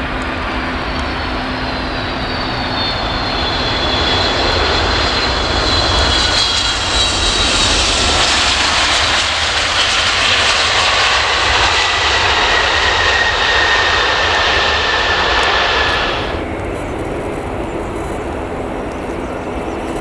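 Boeing 757-200 jet arriving, its engine whine falling in pitch as it passes, loudest in the middle. The sound cuts off abruptly about 16 seconds in, leaving a quieter background hum.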